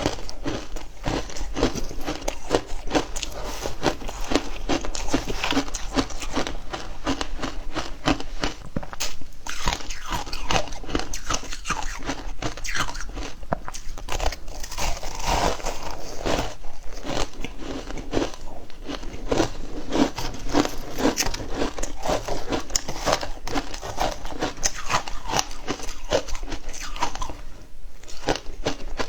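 Frozen matcha ice being bitten and chewed, a continuous run of crisp, crackling crunches close to the microphone, easing off briefly near the end.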